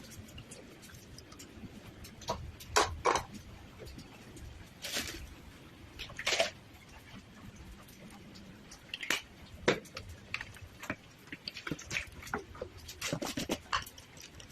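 Scattered light clicks and taps at irregular intervals, a few of them louder, over a low steady background.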